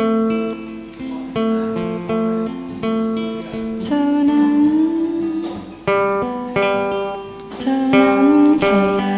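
Acoustic guitar playing an instrumental passage of picked notes and chords.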